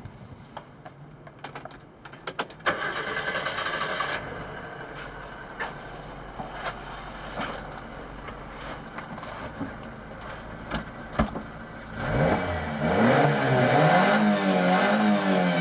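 Subaru Sambar mini truck's small engine: a few clicks and knocks, then about twelve seconds in the engine comes up loud and is revved up and down several times.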